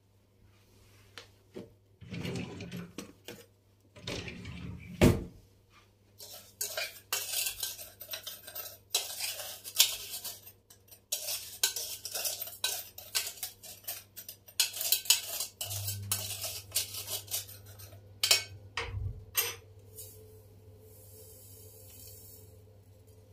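Kitchenware being handled: dishes and cutlery clinking and clattering in quick, irregular succession, with a heavier knock about five seconds in and a faint hiss near the end.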